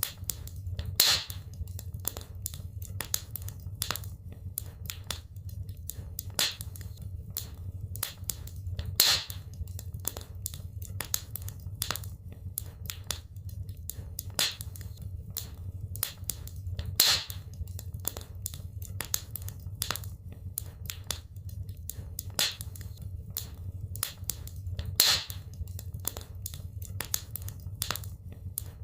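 Wood fire in a fireplace crackling, with dense irregular crackles and snaps over a steady low rumble. A sharper, louder pop comes about every eight seconds.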